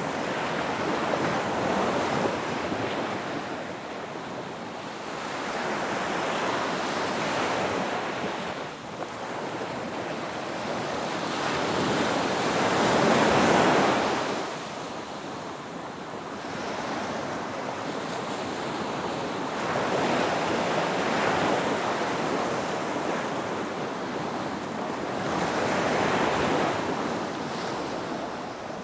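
Ocean surf breaking on a beach: waves wash in one after another, each swelling and fading over a few seconds, with the loudest a little before halfway.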